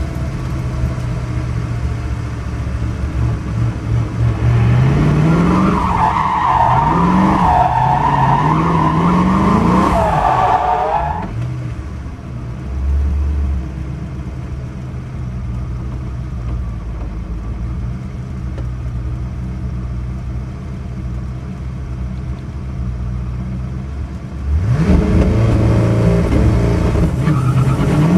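Koenigsegg One:1's twin-turbo V8, heard from inside the cabin at low speed: revving up and down with tyres squealing for several seconds, then running more quietly. Near the end it surges loudly with rising pitch as the car launches into a full-throttle run.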